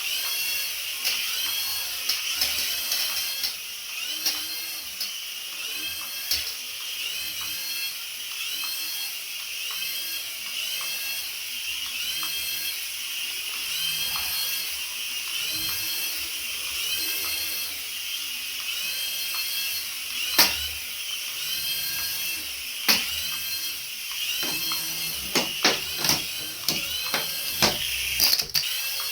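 A battery-powered toy running: a small electric motor whines steadily under short high chirping sound effects that repeat about once or twice a second. A few sharp knocks come in the second half, more of them near the end.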